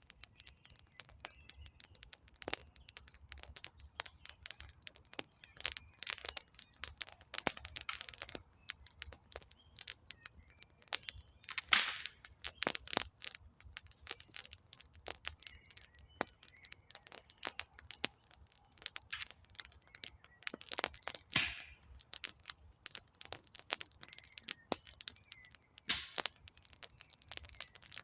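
Wood campfire crackling: a steady run of irregular small snaps and pops from burning logs, with a couple of louder cracks about twelve and twenty-one seconds in. Faint short chirps sit high in the background.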